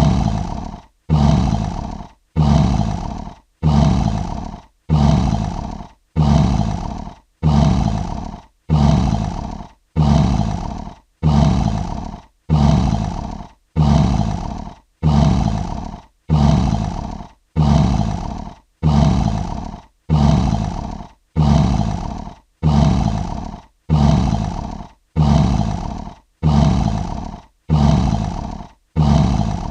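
Lion roar sound effect: one short roar repeated at an even pace, about every 1.2 seconds. Each roar starts suddenly at full strength and fades within about a second, with brief silences between.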